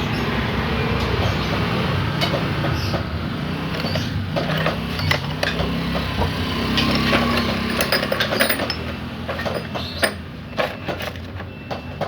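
Hand tools clicking and clinking against metal parts while a motorcycle engine is being taken apart, in a quick irregular string of knocks that thickens in the middle, over a steady low rumble.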